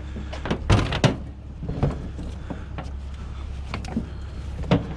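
Several sharp knocks and clatters of scrap items being handled and dropped, the loudest pair about a second in, over a steady low hum.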